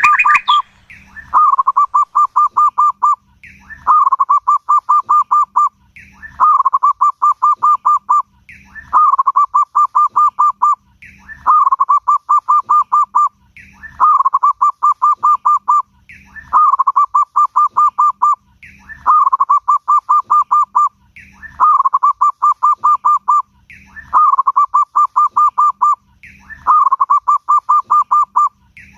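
Zebra dove (perkutut) singing its cooing song, the same phrase repeated about every two and a half seconds: a short higher opening note, then a fast run of rapid cooing notes. A prolific, full-voiced song of the kind used as a lure to set other perkutut singing.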